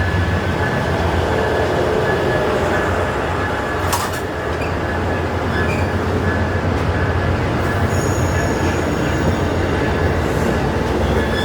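Diesel-hauled passenger train at a station platform: a steady low engine rumble with a thin, steady high wheel squeal over it, and one short clank about four seconds in.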